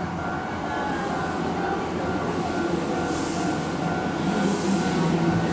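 Keihan electric train running in a station: a steady rumble with a low motor hum that grows stronger near the end, and two short hisses about three and four and a half seconds in.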